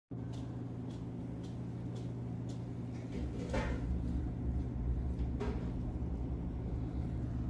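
Vehicle engine idling with a steady low hum, a deeper rumble joining about three seconds in. A few light clicks and two louder knocks, about three and a half and five and a half seconds in.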